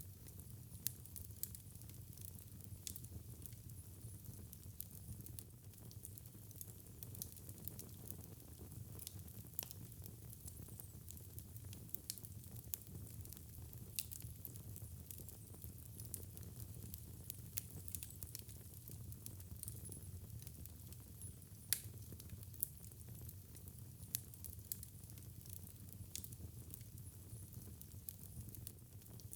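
Wood fire burning in a fireplace, crackling with irregular sharp pops over a low steady rumble. The loudest pop comes a little past two-thirds of the way through.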